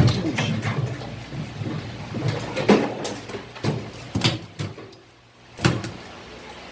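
Irregular knocks and thumps on a hard surface, the sharpest right at the start and four or five more after it, over a steady low hum.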